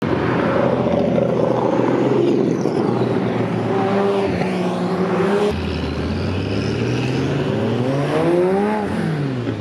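Classic Porsche 911 air-cooled flat-six engines running on the street. A car drives past, and after a cut a rally-prepared 911 runs alongside, its revs climbing and then dropping sharply near the end.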